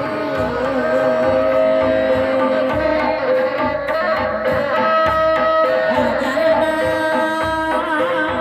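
Sundanese benjang accompaniment music played live: a held, wavering melody on a terompet (Sundanese shawm) over steady kendang drum strokes.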